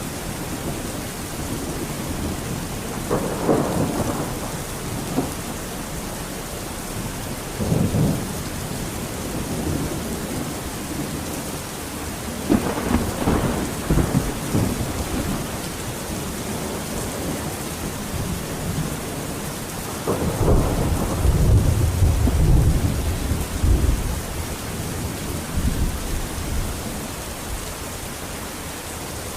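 Steady heavy rain hissing, with rolls of thunder rumbling over it four times, the longest and loudest one about two-thirds of the way through.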